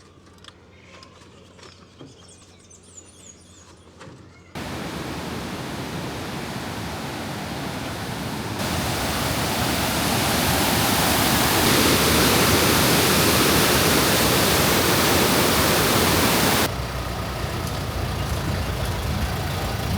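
A steady rushing noise that starts abruptly about four and a half seconds in, gets louder and brighter a few seconds later, and drops back suddenly near the end. Before it there is a quiet stretch.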